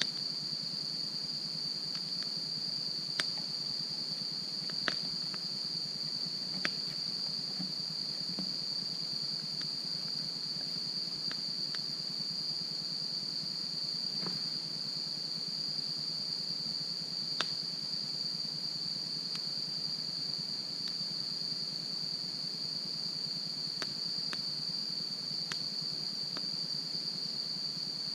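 Wood fire crackling, with a dozen or so irregular sharp pops, over a steady high-pitched insect chorus.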